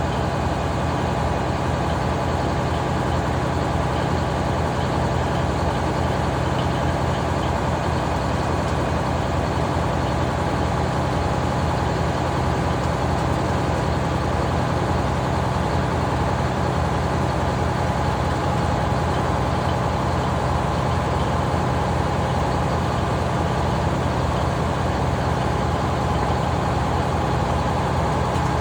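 Large engine powering a sawmill, running steadily with an even low pulse.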